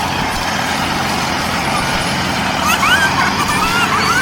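Small motor of a DIY mini tractor running steadily with a constant hum. Short bird-like chirps come in over it a little past halfway.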